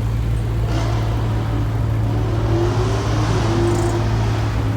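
Car engine running with its pitch rising and falling in light revs, over a steady low rumble.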